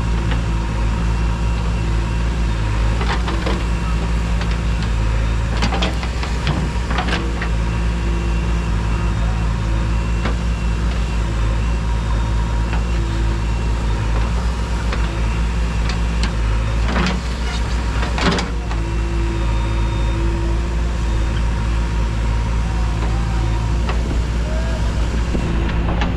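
Heavy diesel machinery engine running steadily at constant speed, with a few sharp clanks scattered through, two close together about two-thirds of the way in.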